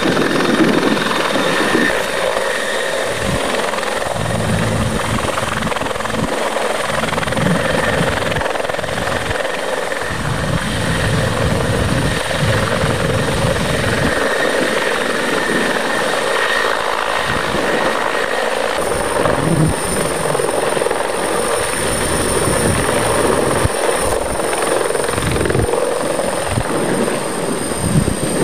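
Aérospatiale AS365N1 Dauphin twin-turbine helicopter running, with steady rotor and engine noise. A high, thin whine comes in about two-thirds of the way through and sinks slightly toward the end.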